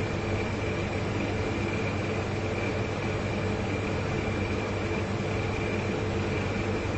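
Two large refrigerators running, their compressors giving a steady low hum with a thin high tone over an even hiss.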